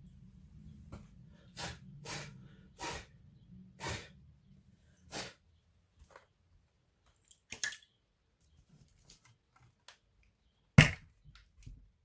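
Laptop parts and tools being handled: a run of short clicks and knocks, about six in the first five seconds, then a single sharp, louder knock near the end. A faint low hum stops about five seconds in.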